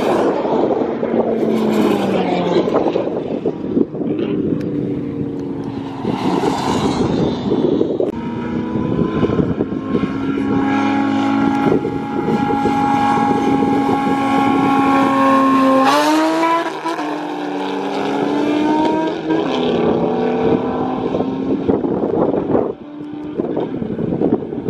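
Cars racing on a highway: a car speeds close past the microphone, then several engines are held at steady revs side by side before launching together about two-thirds of the way in, their pitch climbing through the gears as they accelerate away. Wind buffets the microphone throughout.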